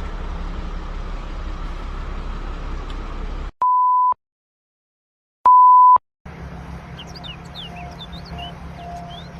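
Two half-second electronic beeps at a single pitch, with dead silence around them; the second beep is louder. Before them a steady low rumbling noise cuts off suddenly about three and a half seconds in. After them a quieter background with brief chirps returns.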